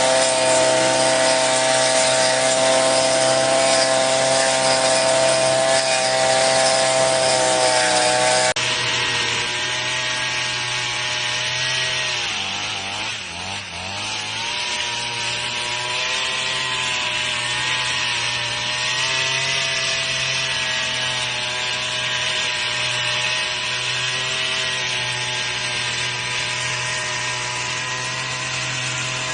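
Small four-stroke engine of a mini garden rotary tiller running at high speed. The tone changes abruptly about eight seconds in, and a few seconds later the engine speed dips briefly and recovers.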